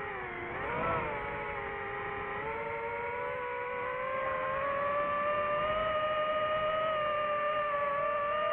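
DJI FPV drone's motors and propellers whining in flight. The pitch dips and comes back up about a second in, then climbs gradually and holds higher as the throttle changes.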